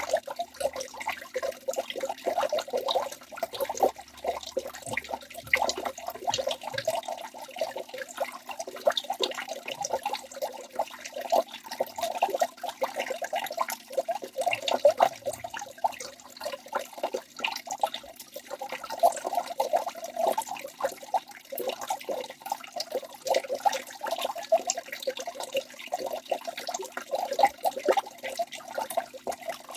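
Waterfall splashing and pouring steadily, a continuous stream of many small irregular splashes.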